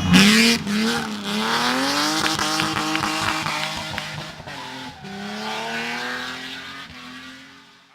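Hill-climb race car engine revving hard, pitch climbing and dropping with gear changes and a few sharp cracks, then fading as the car drives away up the road.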